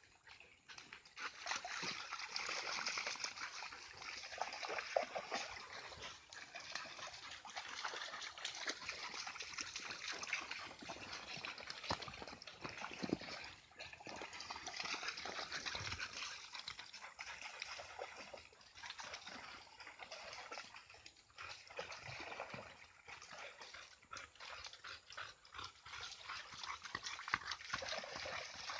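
Shallow stream water trickling and splashing, with dogs moving about in and around it.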